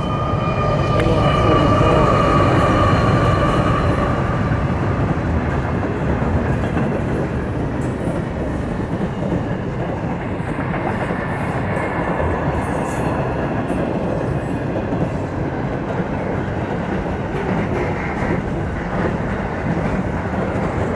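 Pacific National diesel-hauled container freight train passing at speed. A whine from the trailing locomotives fades over the first few seconds, then comes the steady rumble and clatter of loaded container wagons rolling over the rails.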